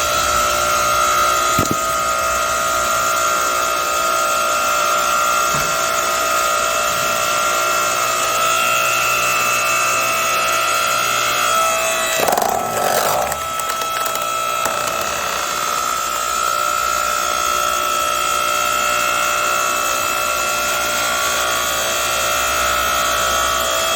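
8-ton hydraulic log splitter running with a steady whine while splitting a log, the wood cracking and splintering about halfway through.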